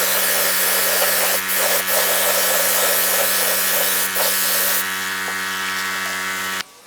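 A motor-driven workshop machine running steadily with a hum and a hiss, its pitch holding constant. It eases a little just before five seconds and then cuts off sharply near the end.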